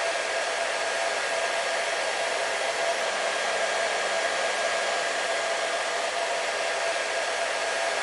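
Hair dryer running steadily: an even rush of blown air with a steady motor whine near 650 Hz, unchanging throughout.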